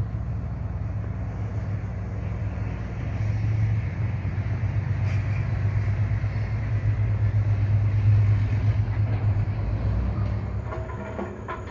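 Bulldozer's diesel engine running steadily under load, swelling and then easing off, with a few metallic clanks near the end.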